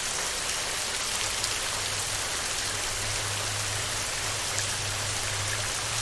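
Heavy rain falling steadily on a metal roof, a dense even patter of drops. A faint low hum sits underneath from about a second in until near the end.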